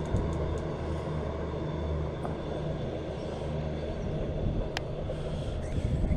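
Train passing, a steady low rumble with a level low hum.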